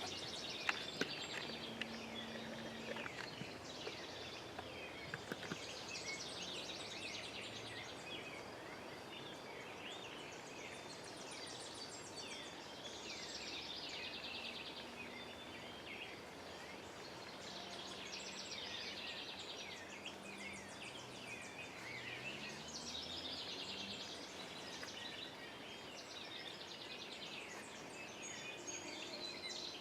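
Songbirds singing in spring woods. High trilled phrases and down-slurred chirps repeat every few seconds over a steady background hiss.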